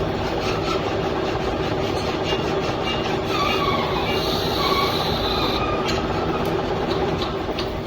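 Metal-cutting machine noise, most likely a lathe turning a steel piston: a steady, dense cutting rumble with a high whine from the tool that rises over it about three seconds in and drops away after about five and a half seconds.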